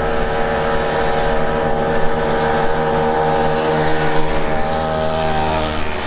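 Several old two-stroke mopeds riding by, their small engines buzzing steadily together, the pitch sagging slightly over the last couple of seconds.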